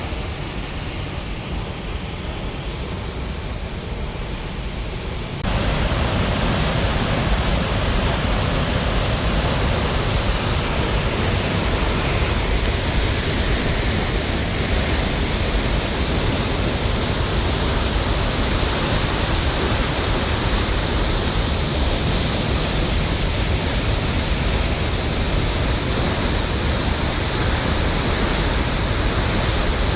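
Steady roar of falling water from a waterfall. It is quieter at first, then cuts abruptly louder about five seconds in and stays steady.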